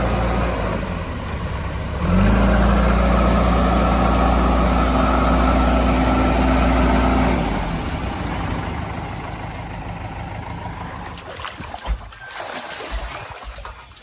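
Heavy vehicle's diesel engine idling, then revved up about two seconds in and held steady for about five seconds before dropping back and fading away. A few sharp knocks come near the end.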